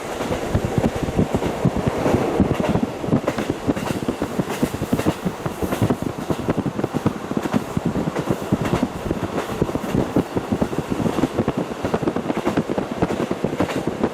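Running noise inside a KiHa 40 diesel railcar under way, heard through a fully open window: a dense, irregular clatter of wheels over the rails over a steady rumble.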